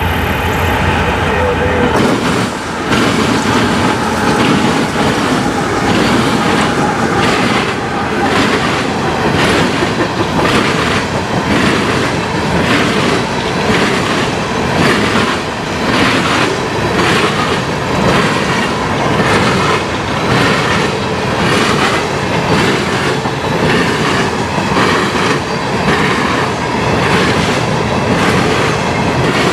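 Freight train cars rolling past close by, wheels clacking in a steady repeating rhythm over the rail joints with a continuous rumble underneath.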